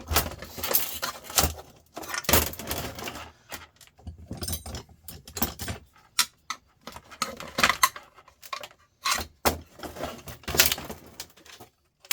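Small metal parts and tools clinking, rattling and scraping in irregular bursts with short pauses, as a sandwich maker is taken apart by hand.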